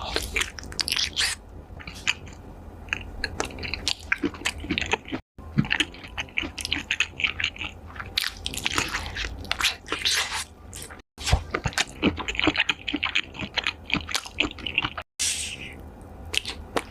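Close-miked eating: crunching, chewing and wet squishing bites of food in quick succession. The sound drops out for an instant three times where clips are joined.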